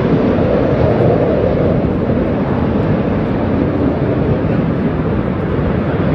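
Airplane engine noise, a steady, loud rush with no clear tone, heaviest in the low range.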